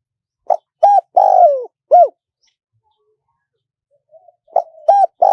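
Spotted dove cooing: a four-note phrase with a long, falling third note about half a second in, and the same phrase beginning again near the end.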